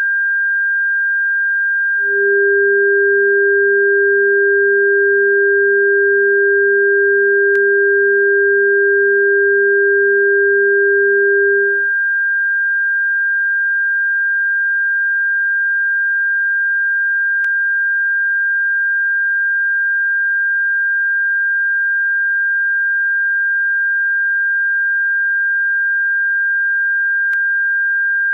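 Electronic bird-repellent tone: a steady, high-pitched pure tone, joined by a lower steady tone about two seconds in that stops about twelve seconds in.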